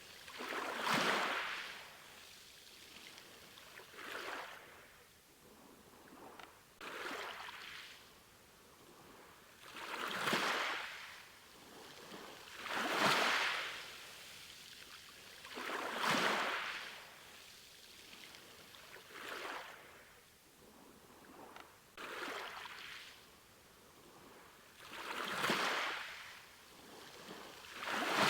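Sea waves breaking and washing on a shore. The surf swells up and falls away about every three seconds.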